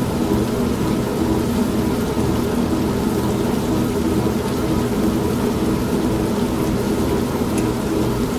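An old manual washing machine running steadily, its motor humming, mixed with the steady hiss of rain and a low rumble of thunder.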